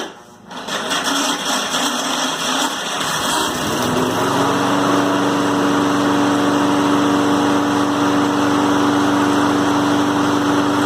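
Small gasoline engine of a Troy-Bilt electric key-start push mower starting on its electric starter and catching, running unevenly at first and then rising to a steady running speed about four seconds in. It runs fine once the starter has power, showing that the dead old battery was the fault.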